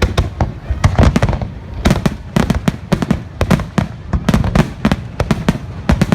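Fireworks finale: a dense, rapid barrage of aerial shell bursts, several sharp bangs a second with deep booms overlapping and echoing.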